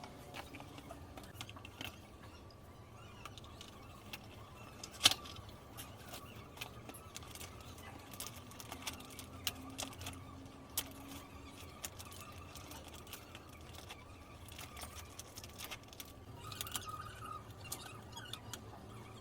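Scattered light clicks and knocks over a faint steady hum, with one sharp, much louder click about five seconds in.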